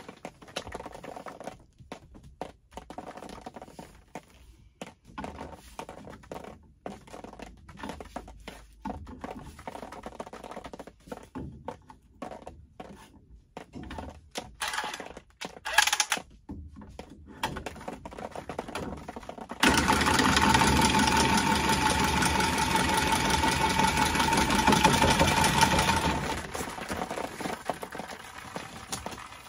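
Light knocks and scrapes of tools being handled on a copper pipe, then about two-thirds of the way in a Milwaukee cordless copper tubing cutter starts and runs with a steady whir for about six seconds, cutting through the copper water line, before tailing off.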